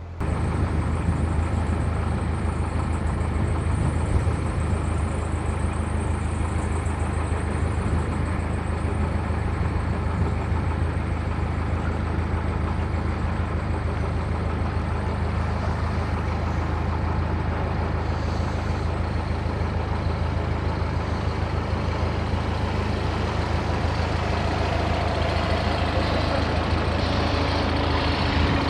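Diesel engine running steadily, a deep hum under an even rumble; a faint higher tone joins near the end.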